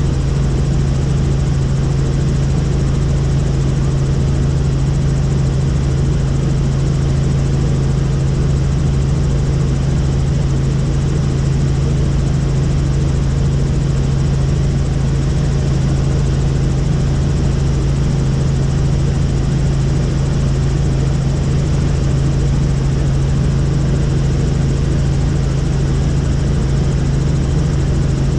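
Helicopter running steadily in flight: an even, unbroken engine and rotor drone with a strong low hum.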